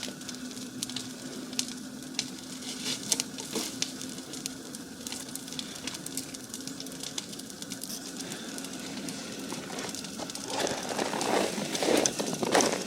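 Large wood-and-brush bonfire crackling, with sharp pops scattered all through. From about ten seconds in, footsteps crunching in snow come in louder over the fire.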